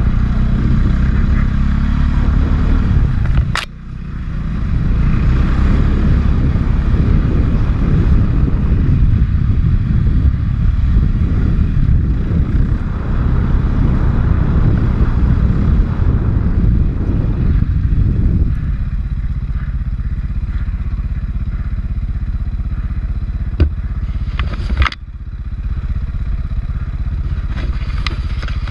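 A 450cc four-stroke dirt bike engine running steadily under load, with rattles and scrapes. The engine drops off briefly about three and a half seconds in. Near the end come two sharp knocks, and the engine dips again after the second.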